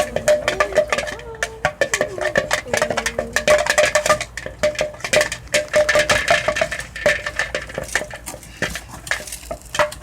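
A spoon stirring a gluey mixture in a bowl, clicking and scraping rapidly against the bowl.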